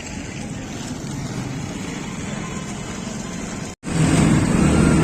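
Steady running noise of a moving vehicle. About four seconds in it cuts abruptly to a louder, steady low engine drone.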